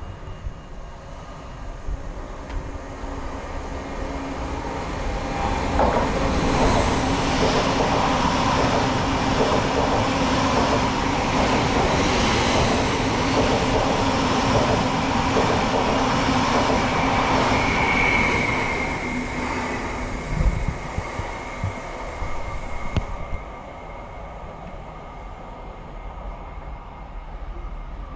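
A train passes through the station: its noise builds over a few seconds, stays loud with a steady low hum and rolling wheels for about twelve seconds, then fades, with a brief high wheel squeal and a few knocks as it goes.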